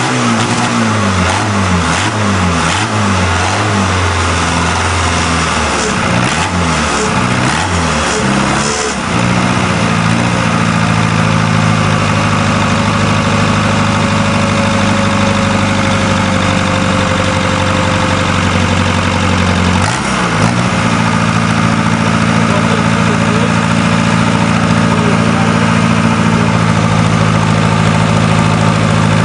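Diesel engine of a mini tractor puller running. Its speed rises and falls for the first nine seconds or so, then it settles into a steady idle, with a brief dip about twenty seconds in.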